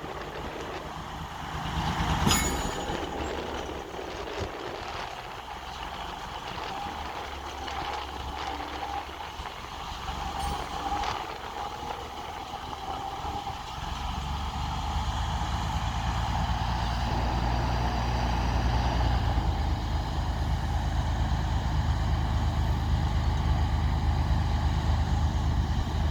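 Engine of a small rail vehicle running, with a sharp click about two seconds in; the low rumble grows louder from about halfway through as it comes closer.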